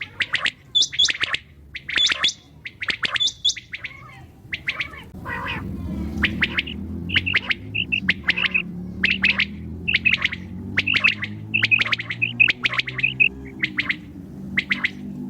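Common quail calling: a rapid series of short, sharp, high chirping notes repeated over and over, with a steady low hum underneath from about six seconds in.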